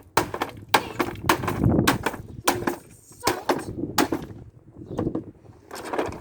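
Hammer repeatedly striking and breaking the hard plastic body of a Playskool kids' ride-on toy car: about a dozen sharp blows at an irregular pace of roughly two a second.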